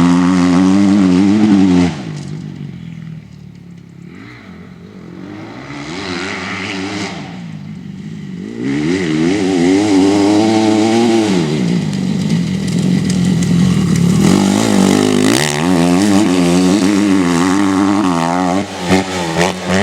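Motocross bike engine revving hard as it rides, its pitch rising and falling with the throttle. After about two seconds it drops away to a faint drone for several seconds, then comes back loud, with short throttle blips near the end.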